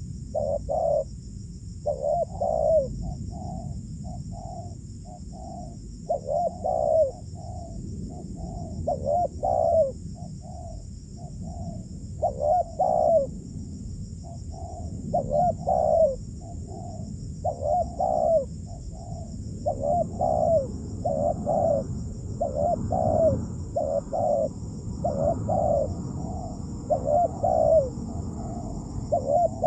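Spotted doves cooing over and over, short low coos in quick groups of two or three, repeating every second or two.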